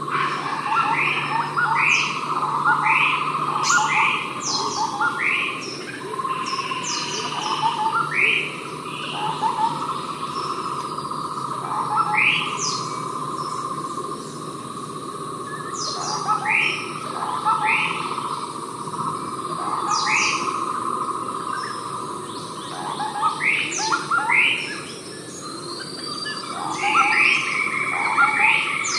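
Javan scimitar babbler calling: short upward-sweeping notes, repeated about once a second in clusters, over a steady drone of insects.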